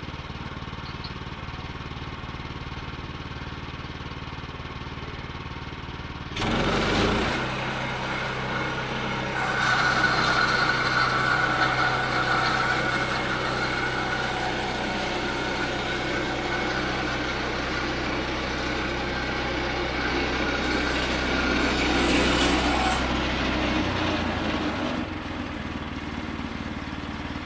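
Woodland Mills HM122 band sawmill's 9.5 hp engine running at idle, then throttled up with a sudden rise at about six seconds. From about nine seconds the band blade cuts through a walnut log with a steady whine over the engine, and near the end the engine drops back as the cut finishes.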